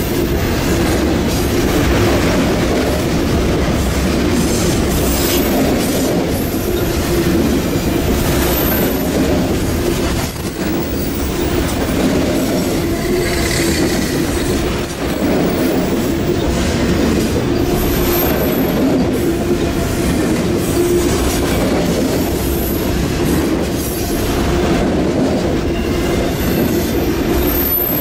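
Enclosed auto rack freight cars rolling past at close range: a loud, steady rumble of steel wheels on the rails, with a few brief, faint high squeals from the wheels.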